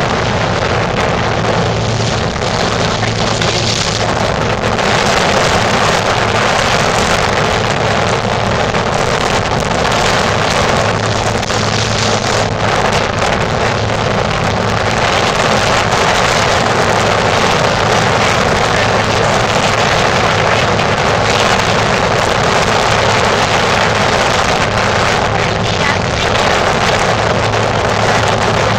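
Small motorboat's outboard motor running steadily under way, with hull and water rush and wind buffeting the microphone.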